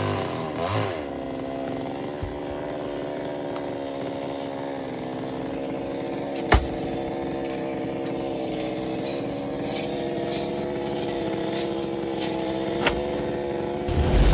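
Chainsaw engine running at a steady speed, with a sharp knock about six and a half seconds in and a smaller one near the end. Just before it ends, it gets suddenly louder.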